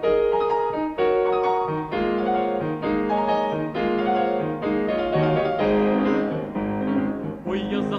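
Piano playing an instrumental interlude of chords struck about once a second in a Ukrainian folk-song accompaniment; a tenor voice comes in near the end.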